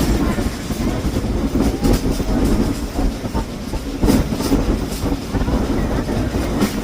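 Steam train passenger car rolling along the track, heard from on board: a steady low rumble with irregular clicks and clanks from the wheels and couplings.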